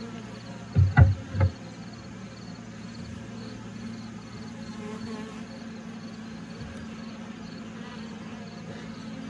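Honeybees from a crowded open hive buzzing as a steady low hum. About a second in come three quick thumps.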